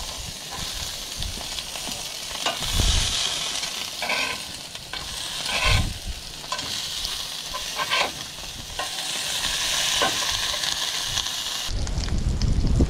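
Halved yabbies sizzling in olive oil in a hot cast iron skillet, with a metal spatula scraping and knocking against the pan several times as they are turned. Near the end the sizzling stops and wind rumbles on the microphone.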